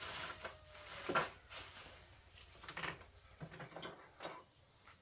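Scattered knocks, clicks and scrapes, several short ones spread over a few seconds.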